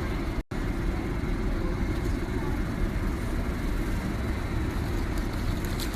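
Steady low rumble of an airliner cabin in flight, cutting out for a moment about half a second in.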